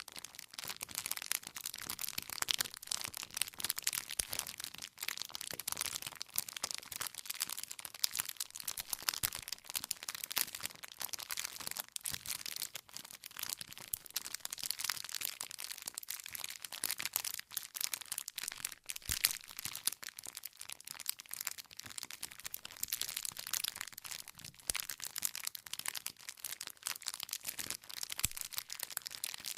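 Wood fire burning with constant dense crackling and frequent sharp pops from the logs.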